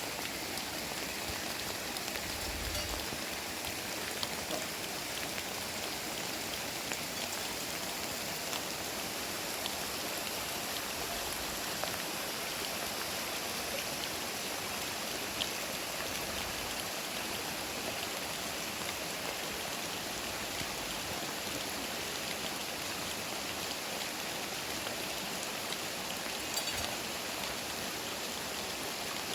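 Heavy rain falling steadily, a continuous hiss with scattered drop ticks.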